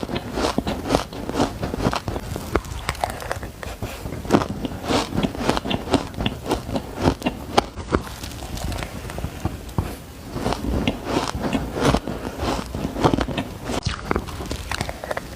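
Close-up crunching of shaved ice being bitten and chewed, a rapid irregular series of crisp crackles and crunches.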